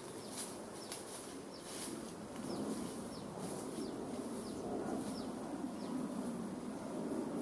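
Small-bird chirps, short high falling notes repeated every second or so, over a rustling noise that grows louder about two and a half seconds in.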